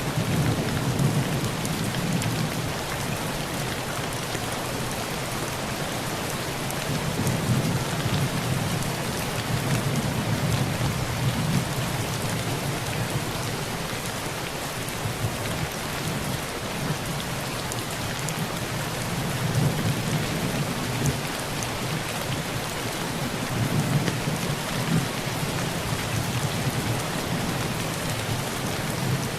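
Heavy rain falling on a tin roof, a steady dense hiss, with thunder rumbling low in several long rolls that swell and fade: one at the start, one a quarter to a third of the way in, and more about two-thirds through.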